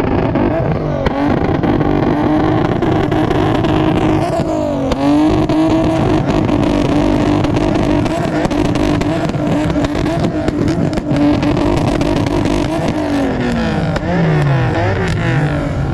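Car engine held at high revs, loud and steady, with the revs dropping and climbing back up about four to five seconds in and again near the end.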